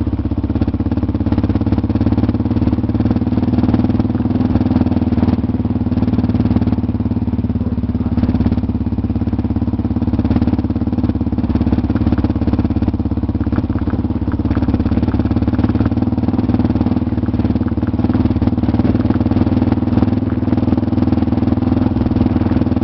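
Motorcycle engine running steadily under way, holding an even pitch throughout.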